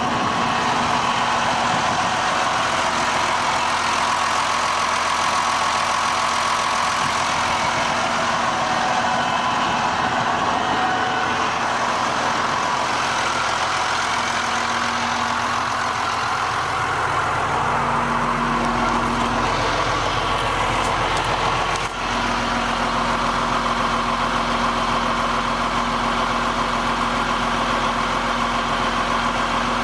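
Ford TW-30 tractor's turbocharged six-cylinder diesel engine idling steadily. A deeper hum joins a little past halfway, and there is a brief click soon after.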